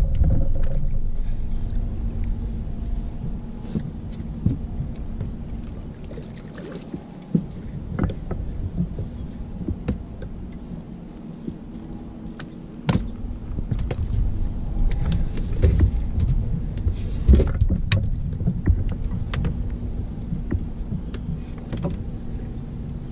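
Low rumble of wind on the microphone aboard a fishing boat, over a faint steady hum. Scattered knocks and clatter against the boat break through, the sharpest about halfway through and again a few seconds later.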